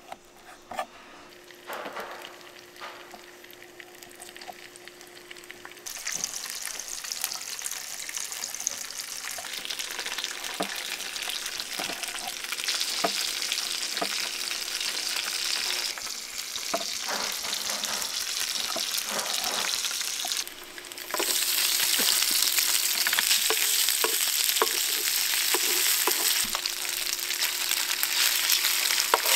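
Food sizzling in a hot pan. The sizzle starts abruptly about six seconds in and grows louder, with scattered clicks and knocks of utensils throughout.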